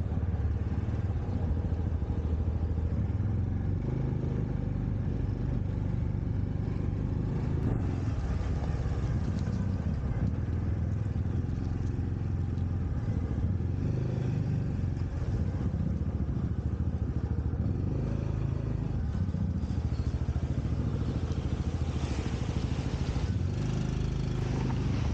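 Motorcycle engine running steadily with a low hum, as when cruising. Its pitch shifts slightly a few times, and it cuts off abruptly at the end.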